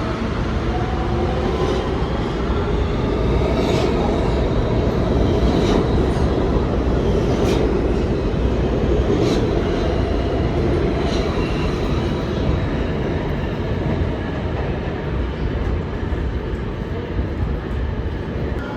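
New York City subway train running through an underground station with a steady heavy rumble and a faint high whine. Its wheels click over the rail joints about every two seconds for the first half.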